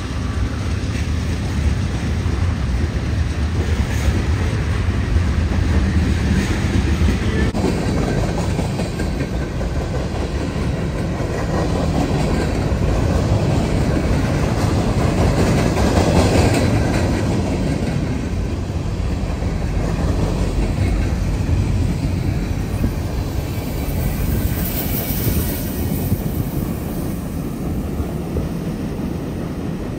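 Freight train rolling past close by: steady rolling noise of steel wheels with clacking over the rail joints. A deep rumble from the BNSF diesel locomotives is strongest in the first several seconds, and the car noise swells about halfway through.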